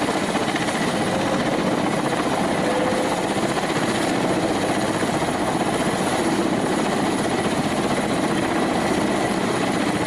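Helicopter running, a steady rotor and engine noise with a rapid fluttering texture.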